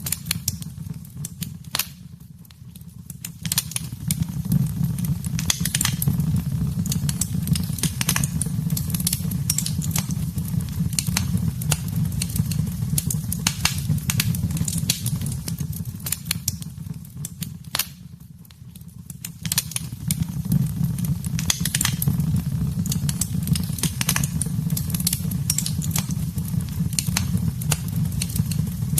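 Wood fire in a fireplace crackling and popping, many sharp snaps over a steady low rumble of the flames. The crackling thins out and falls quieter twice, briefly, about two seconds in and again near eighteen seconds.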